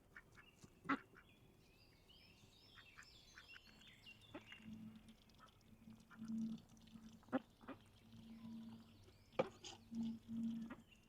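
Birds calling: quick high chirps throughout and several short low calls in the second half, with four sharp knocks spread through.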